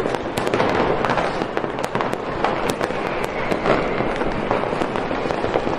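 Fireworks going off in a continuous barrage, dense crackling with many sharp bangs, several a second.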